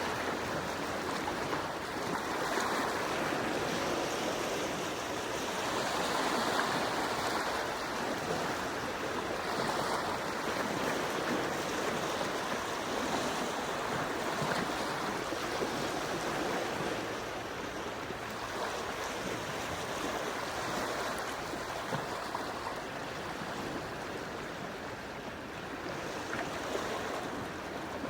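Gentle sea waves washing on the shore, a continuous wash of water that swells and eases every few seconds.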